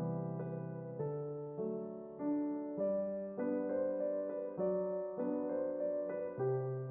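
Background piano music, slow, with a new chord struck about every half second and each one left to fade.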